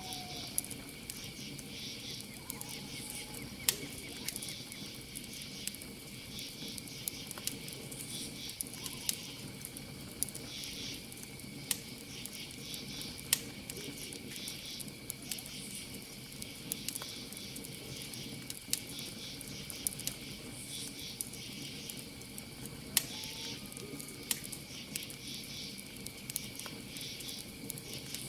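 Campfire crackling, with sharp pops every second or two, over a steady night chorus of crickets: one continuous high trill and rhythmic bursts of higher chirping.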